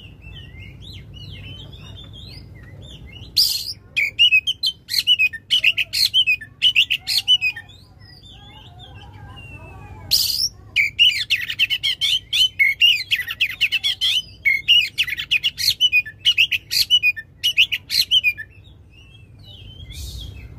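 Oriental magpie-robin (kacer) singing loudly in long runs of rapid, varied phrases and fast repeated notes. It starts with soft twittering, breaks into loud song about three seconds in, pauses briefly in the middle, then sings a second long loud run.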